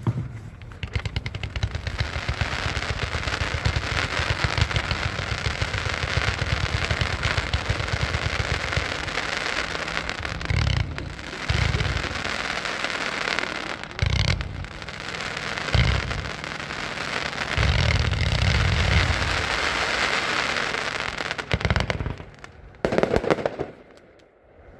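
A 182-shot zipper cake firing: a rapid, unbroken stream of shots and crackling reports, with heavier booms mixed in from about halfway on. The barrage dies away a second or two before the end.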